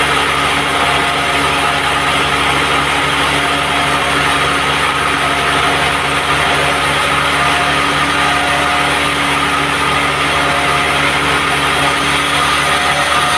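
Band sawmill running steadily, its motor and blade making a loud, even machine noise with a steady hum.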